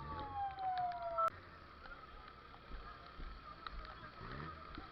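Emergency vehicle siren sliding down in pitch and cutting off suddenly about a second in, followed by a faint steady whine and background noise.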